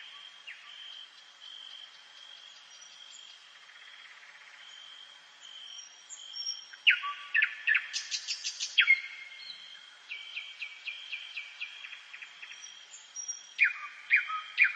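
Dawn chorus of several songbirds. A high thin note repeats steadily through the first half, and louder close-by song phrases with downward sweeps and rapid trills come in about halfway through and again near the end.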